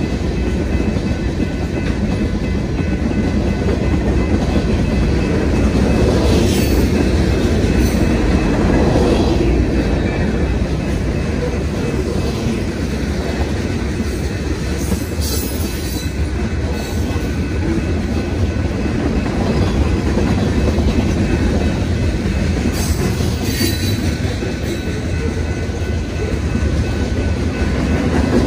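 BNSF freight train cars rolling past on the rails: a steady, loud rumble of wheels on track, with a few brief sharp high clanks or squeaks along the way.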